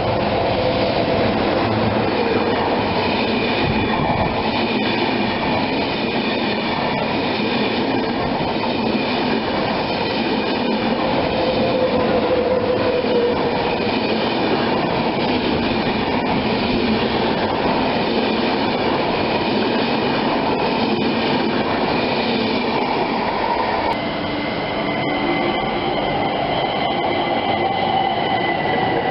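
A train running close by, a continuous heavy rumble of wheels on rails with steady high-pitched tones above it. The sound changes abruptly about 24 seconds in, with the tones shifting and the level dipping briefly.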